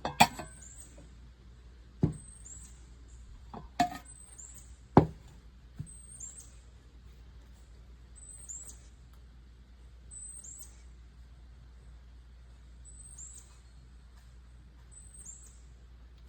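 A few sharp knocks and clacks from ceramic dinner plates being handled, four in the first five seconds, then quiet. Faint, short high chirps falling in pitch repeat every second or two throughout.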